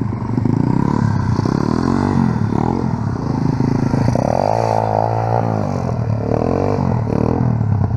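Small off-road motorcycle engine running under load while riding, revs rising and falling, with a stronger burst of revs about four seconds in.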